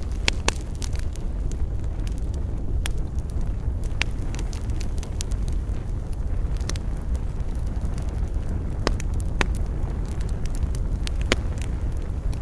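Campfire wood crackling: irregular sharp snaps and pops, a few louder than the rest, over a steady low rumble.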